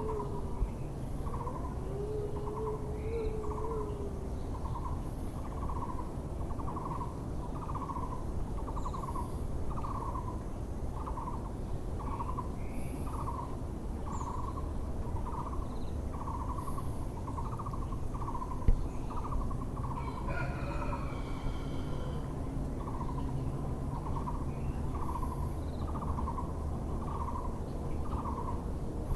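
Müller's barbet calling: one low, hollow note repeated evenly about every three-quarters of a second, on and on, over a steady low background rumble. Another bird calls briefly about two-thirds of the way through.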